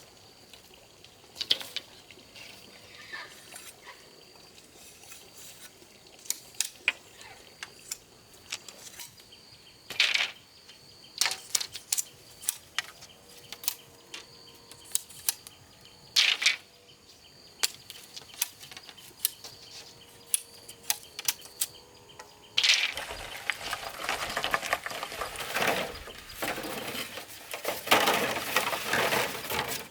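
Irregular sharp taps and knocks, as from hand work with tools and materials, then about three-quarters of the way in a long stretch of rough scraping or rustling noise.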